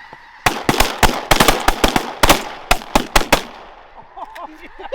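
Rapid volley of shotgun fire from several hunters, a dozen or more overlapping shots in about three seconds, fired into a flock of snow geese coming into decoys. Geese calling faintly near the end.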